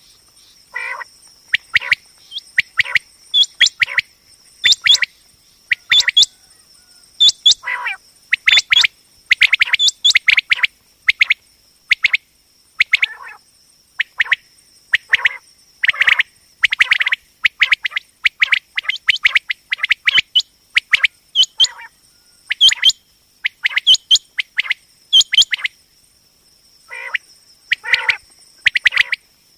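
Common quail calling: short, sharp chirping notes in quick clusters, repeated again and again with brief pauses. A steady high-pitched whine runs underneath.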